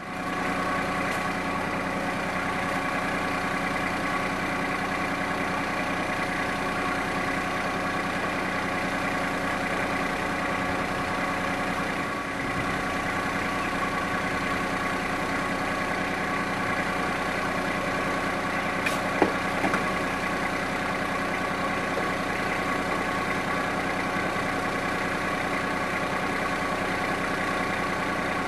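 TYM compact tractor's diesel engine running steadily at constant speed, with a brief click about two-thirds of the way through.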